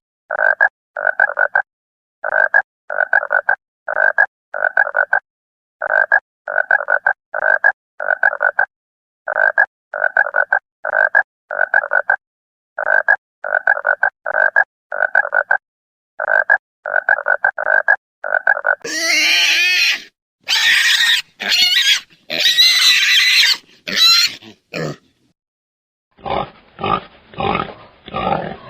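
An animal call, short and repeated in quick runs of four or five with silent gaps between, going on for about nineteen seconds. Then come several louder, higher calls that bend in pitch, and near the end a different series of short, lower calls.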